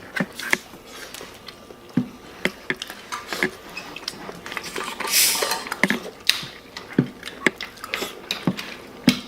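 People eating pizza close to the microphone: a scatter of irregular wet clicks and smacks from chewing and biting, with a short rustling hiss about five seconds in.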